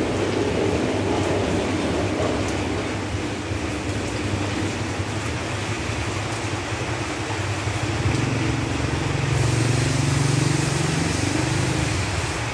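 Steady rain falling on leaves, with the low rumble of a passing vehicle that swells about eight seconds in and fades near the end.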